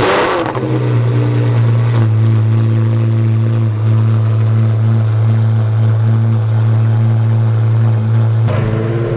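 Pagani Zonda HP Barchetta's 7.3-litre AMG V12 engine: a short loud burst right at the start, then a steady idle. The note changes shortly before the end.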